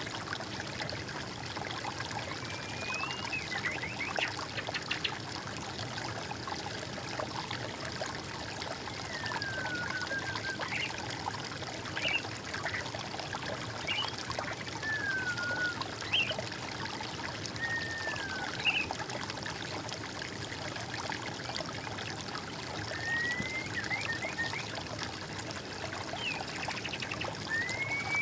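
Water trickling and flowing steadily, with a songbird giving short whistled notes, some rising and some falling, every second or two.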